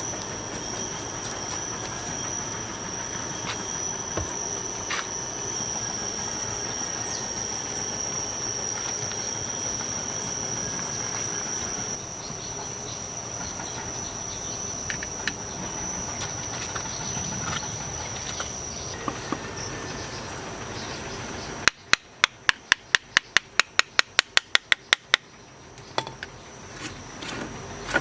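A steady high insect trill over outdoor background noise with scattered faint knocks. Near the end comes a rapid run of about fifteen sharp clicks, roughly four a second, the loudest sounds here.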